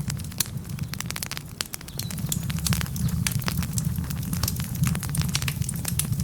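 Wood fire crackling steadily: many sharp irregular pops and snaps over a low, steady rumble of the flames.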